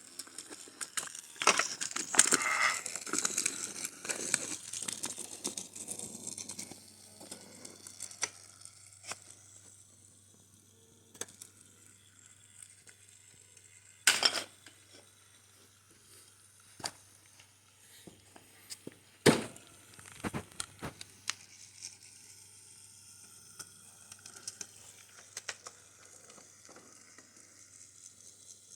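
Wooden toy train track pieces being handled. Dense rustling and clicking for the first few seconds, then scattered light clicks with two sharp knocks, one about halfway through and one a few seconds later.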